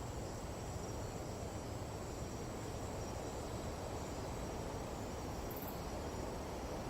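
Night insect chorus, a steady high trilling, over a constant low rush of wind.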